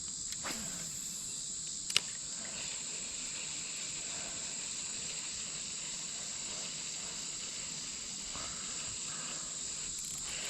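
Steady high-pitched insect chorus, with one sharp click about two seconds in.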